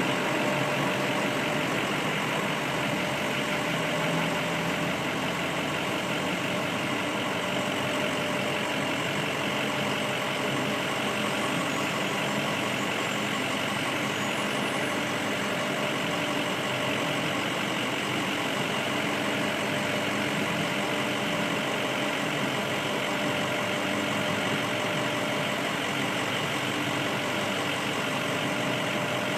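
Car engine idling steadily at a standstill: a constant hum with no revving.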